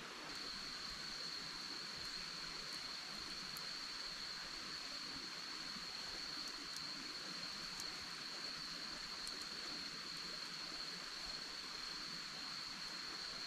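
Forest ambience: insects trilling in one steady high-pitched note over an even rushing hiss of running water, with a few faint ticks.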